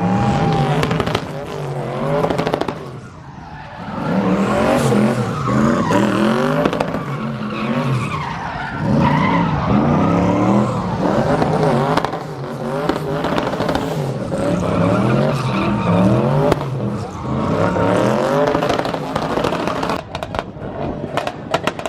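Car engines revved hard over and over, each rev climbing and dropping in quick repeated bursts against the rev limiter, typical of a two-step launch-control battle.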